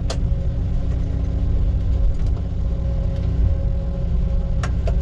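Heavy-equipment diesel engine running steadily at constant speed, a low drone with a steady hum over it, with a few faint clicks.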